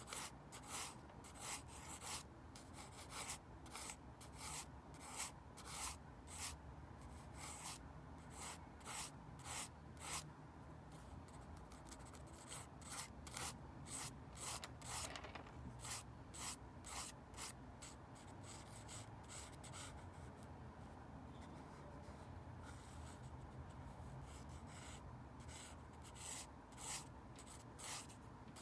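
Pencil scratching on paper in short, quick strokes, about two a second, sketching construction lines; the strokes thin out for several seconds past the middle, then pick up again near the end.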